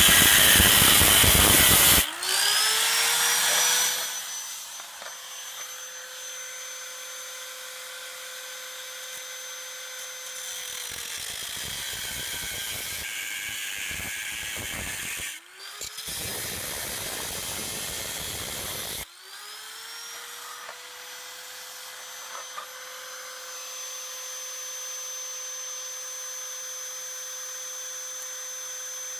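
Angle grinder cutting into a steel minibike fender. Each time it is lifted off the metal its whine rises in pitch and settles to a steady free-running note. It bites back in for several seconds near the middle, then comes free again and runs on steadily.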